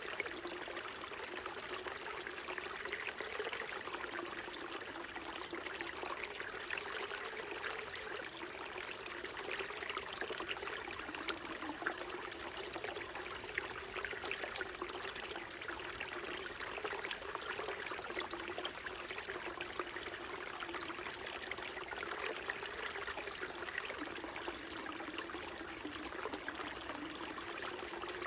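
Small mountain stream flowing steadily over rocks: a continuous babble of water with fine splashes and trickles and a low gurgling undertone.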